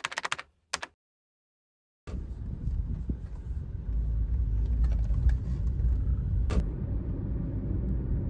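A brief snatch of music at the start, then about two seconds in a steady low rumble of car road noise begins, with a few light knocks.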